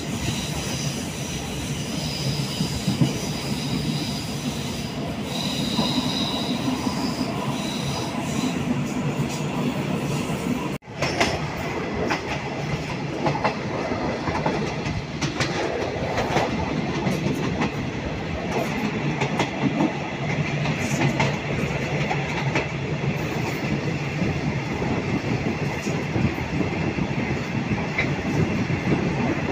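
Passenger train running, heard from inside a carriage: steady rumble of the wheels on the track, with clicks as they pass over rail joints. There is a very brief break in the sound about eleven seconds in.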